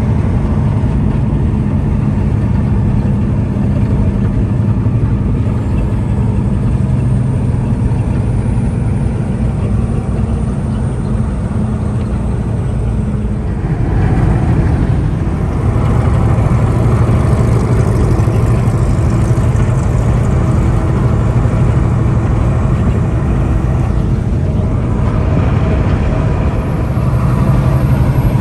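A semi truck's engine running steadily while driving. Its note shifts about halfway through and again near the end.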